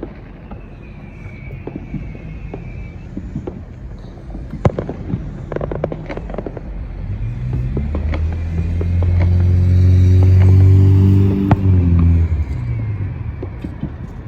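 Scattered firecracker pops and cracks while a car drives past close by. Its engine hum builds from about seven seconds in, is loudest around ten seconds, then drops in pitch as it moves away.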